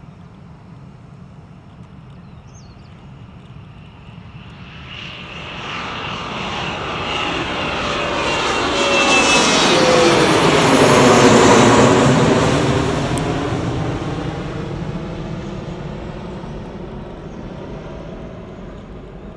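Jet airliner's engines passing during a takeoff: the sound builds over several seconds, peaks about halfway through and fades away, its whine dropping in pitch as the plane goes by.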